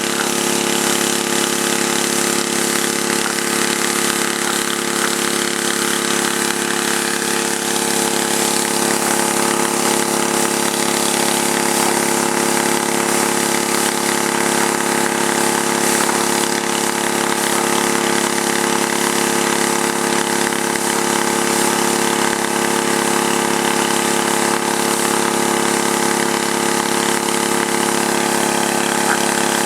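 Gas-engine pressure washer running steadily, with an even hiss of water spraying from the water broom over it.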